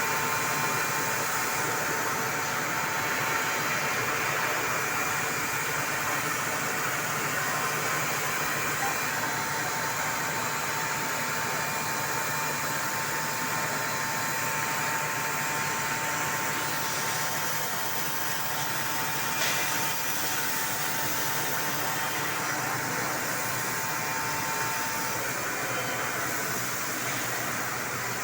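4-axis CNC machine running steadily, an even mechanical whirr with a faint high whine that stops a few seconds before the end. One brief click about two-thirds of the way through.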